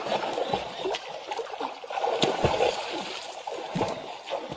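Water splashing and sloshing, with uneven churning and scattered sharp little splashes throughout.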